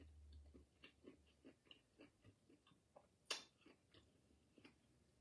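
Faint chewing of a mouthful of food, soft irregular mouth clicks and smacks, with one sharper click a little over three seconds in.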